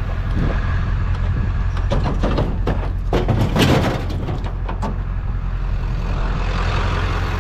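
Truck engine running steadily, with a few knocks and rattles about two to four seconds in.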